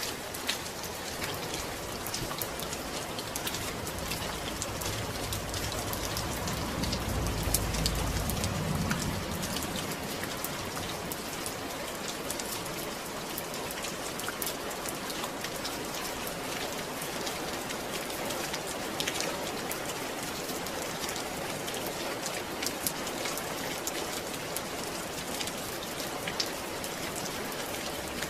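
Steady rain falling, with many individual drops pattering on a surface. A low rumble swells briefly about seven to nine seconds in.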